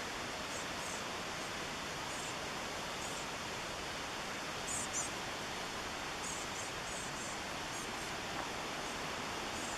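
Steady rush of a mountain river's fast-flowing water, with small birds giving short, high chirps on and off over it, the loudest chirps about five seconds in.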